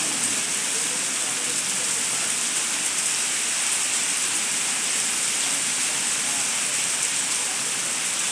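Heavy rain pouring down, a steady dense hiss of drops hitting surfaces.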